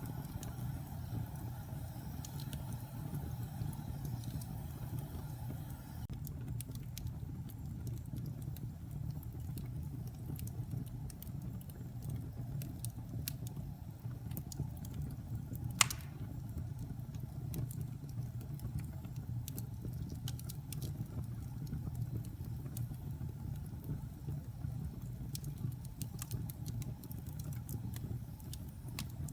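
Wood fire burning in a fireplace: a steady low rumble with scattered crackles and one loud pop about halfway through.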